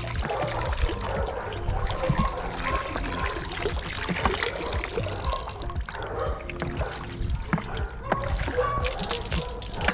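Water trickling and dribbling out of a robotic pool cleaner as it is lifted from the pool, with small irregular splashes.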